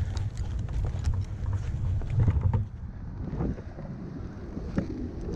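Wind buffeting the microphone as a low rumble, with scattered clicks and knocks; the rumble eases about halfway through.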